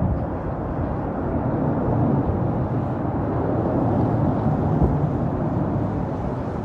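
Jet airliner engines, a steady even rumble with no sharp events.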